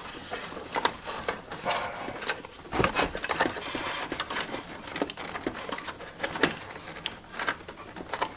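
Irregular clicks, knocks and rustling from hands working cables and plastic connectors loose inside a desktop computer case, at the back of the optical drive.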